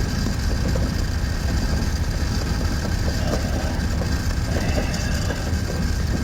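Heavy vehicle running with a steady low rumble and a busy, loose rattling.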